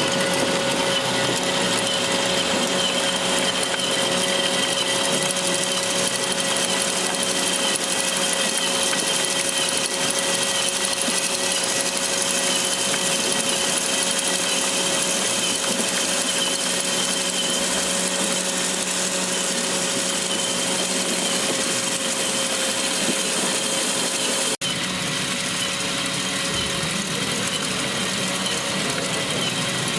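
Small electric motors and gearboxes of radio-controlled model vehicles running, a steady mechanical whine with several held tones. The sound breaks off for an instant about 25 seconds in.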